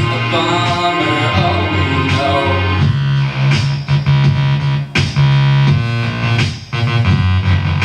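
Live band music without vocals: synthesizer and keyboard chords over a heavy pulsing bass line, with sharp accents that cut in and out in the second half.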